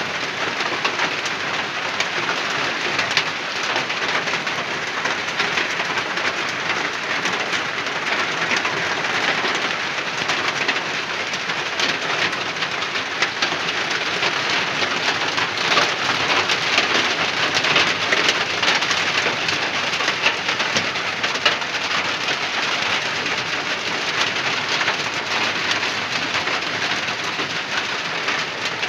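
Heavy rain falling steadily: a dense, even hiss with many single drop hits heard through it.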